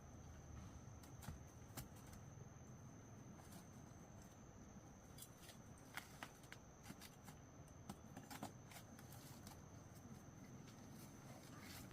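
Near silence: faint background with a steady high-pitched tone and scattered soft clicks and rustles, a few sharper ones about halfway through.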